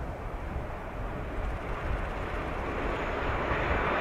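JR 185 series electric multiple unit passing at speed: a steady rushing running noise that grows louder over the last second or two as the train draws nearer, over a low rumble.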